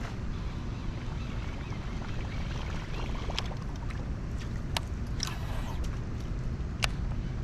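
Wind rumbling on the microphone out on the water, steady throughout, with a few sharp clicks and one short scratchy sound about five seconds in.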